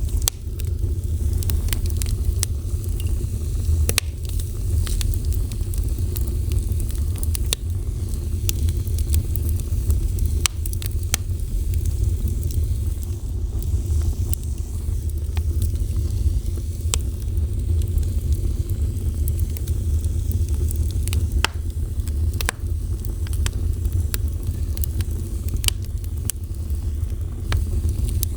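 Fire burning: many scattered sharp crackles and pops over a steady low rumble.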